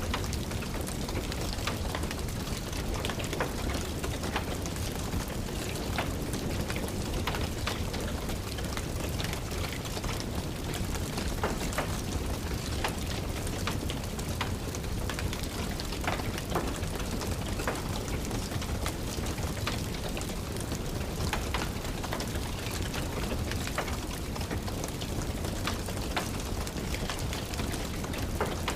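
Steady rain with a wood fire crackling over it, sharp pops scattered irregularly through the steady hiss.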